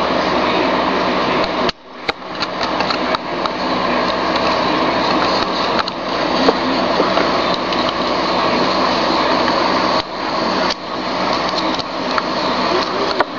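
Loud, steady white-noise hiss with a few faint clicks. It cuts out suddenly about two seconds in and swells back within a second, then dips briefly again near the ten-second mark.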